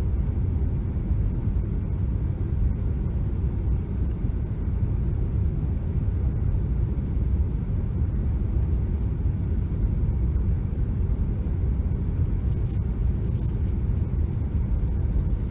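Steady low rumble of engine and airflow noise inside an aircraft cabin in flight, even and unchanging.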